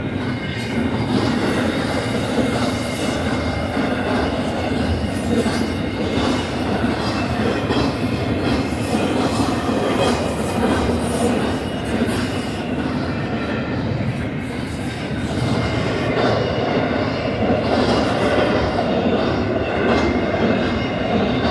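Freight cars of an intermodal train, double-stack container cars and then trailer-carrying cars, rolling past close by: a steady, loud rumble of steel wheels on rail.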